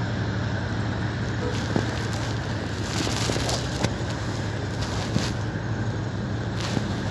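Train running: a steady low hum under a noisy rattle, with a few sharp knocks.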